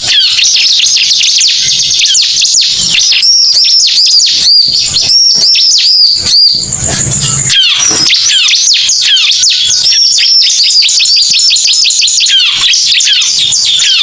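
Bar-winged prinia (ciblek) song: a loud, unbroken stream of rapid high chirps and trills, with a run of repeated arched whistled notes in the middle. It is the kind of recorded call played as a lure to draw the birds in.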